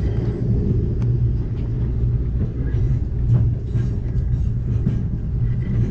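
Amtrak Cascades passenger train running along the track: a steady low rumble of wheels and cars, with a few faint ticks over it.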